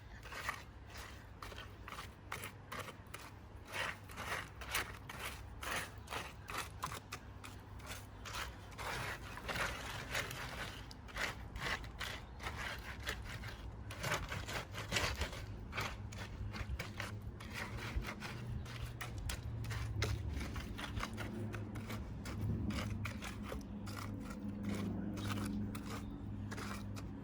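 Wet cement being worked with a hand tool: irregular scraping and clicking strokes, many of them, over a low steady hum.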